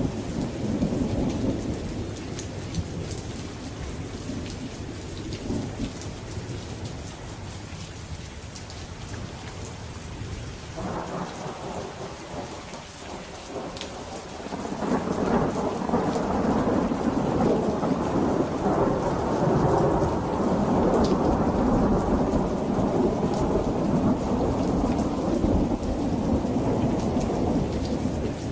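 Steady rain falling with thunder. A low rumble in the first few seconds dies down; then, about halfway through, a long roll of thunder swells up and rumbles on until near the end.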